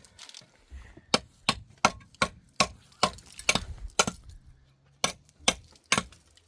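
A hand tool knocking sharply and rapidly during cement block-making, about three strikes a second, with a short break a little past the middle.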